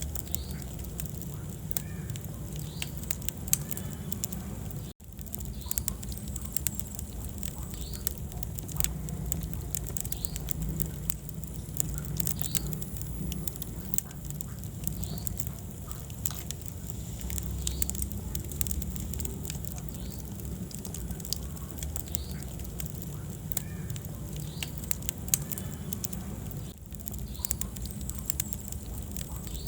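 Wood fire burning in a fireplace: irregular sharp crackles and pops over a steady low rumble of the flames. The sound cuts out for an instant about five seconds in.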